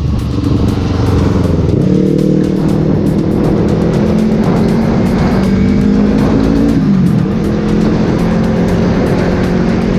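Motorcycle engine running and revving, its pitch rising about two seconds in and dipping briefly about seven seconds in, with music playing along.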